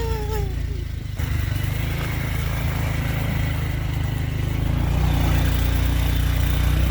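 Motorcycle engine running as it carries riders along a dirt road, with wind rumbling on the microphone; it gets louder about five seconds in. A brief falling voice sounds at the very start.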